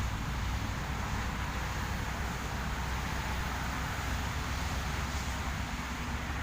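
Steady wind buffeting the microphone, a constant low rumble with a hiss above it.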